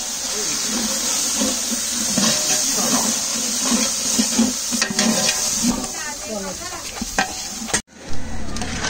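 Fried onions and ginger-garlic paste sizzling in oil in a large aluminium biryani pot, stirred and scraped with a metal spatula. The sound cuts out briefly near the end.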